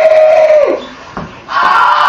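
A person's long, loud yell on one held pitch that drops away about half a second in, followed by another loud shout starting around a second and a half in.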